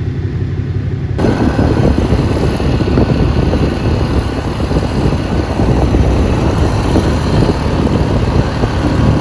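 Vehicle engine running while moving. From about a second in, a loud rushing noise of wind and road covers it.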